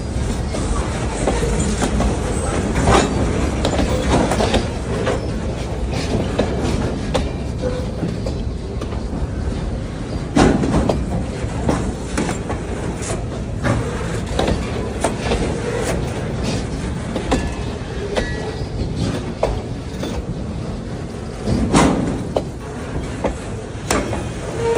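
Freight train rolling past at close range: a steady rumble with irregular clacks of wheels over rail joints, the loudest about ten seconds in and again near the end, and a faint wheel squeal now and then.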